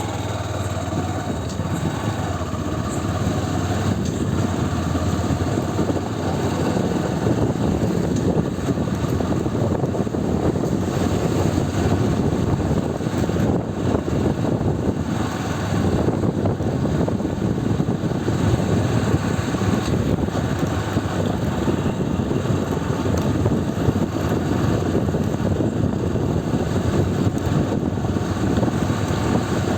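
Motorcycle running steadily while riding, its engine under a dense, even rush of noise.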